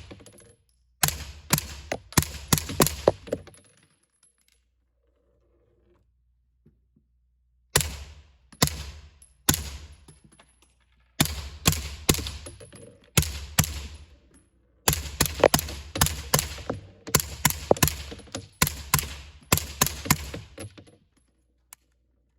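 Suppressed 9mm B&T APC9 Pro carbine firing semi-auto. A quick string of about six shots, a pause of about four seconds, three single shots about a second apart, then several fast strings of shots.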